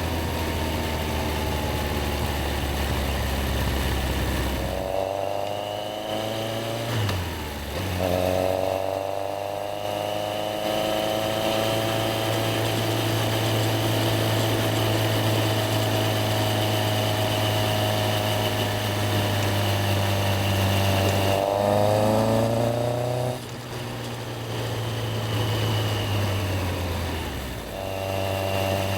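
Yamaha XJR1300's air-cooled inline-four engine running low at first, then pulling away about five seconds in with rising revs and a gear change. It cruises steadily, revs up and shifts again about three quarters of the way through, then eases off near the end.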